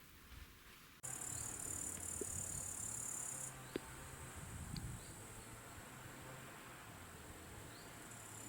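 Insects chirring in a steady, high, even buzz that starts suddenly about a second in. It fades somewhat partway through and grows stronger again near the end, with a single sharp click in the middle.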